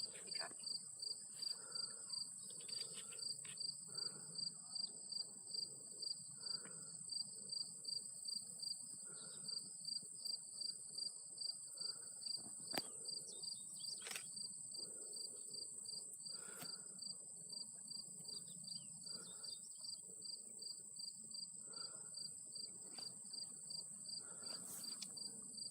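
Insects chirping: a steady high-pitched drone under a rhythmic chirp repeating about two to three times a second.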